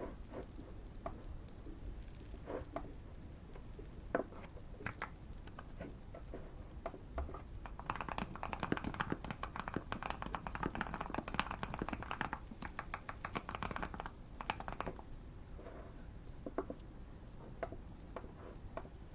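Typing on a Keychron Q1 mechanical keyboard with Fierce Girl switches and tape and foam mods. A fast run of keystrokes comes from about 8 to 14 seconds in, with scattered single clicks before and after, over light fireplace crackling.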